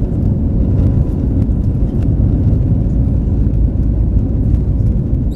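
Steady, loud rumble of an Airbus A320 heard from inside the cabin in flight: engine and airflow noise, with a faint steady whine above it.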